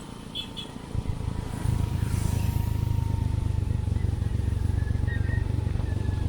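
Motorcycle engine running steadily, swelling in about a second in and holding, with a few faint bird chirps above it.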